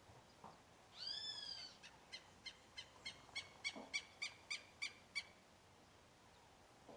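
A bird calling: one drawn-out, arching note about a second in, then a quick run of about a dozen short, clipped notes at roughly three or four a second.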